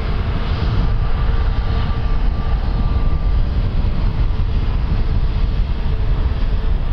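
Airliner engines running, a steady loud rumble with a faint whine held underneath.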